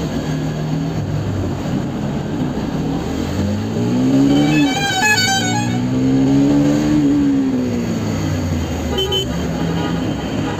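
Bajaj Pulsar NS200's single-cylinder engine running under way, revs climbing twice and dropping back after each, as in a gear change and then easing off. A vehicle horn honks briefly about five seconds in.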